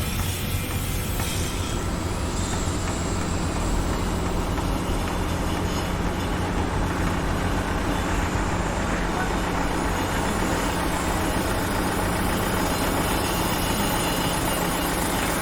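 Construction-site machinery noise: a heavy vehicle engine running steadily under a dense, even wash of machine sound, with no distinct knocks or strikes.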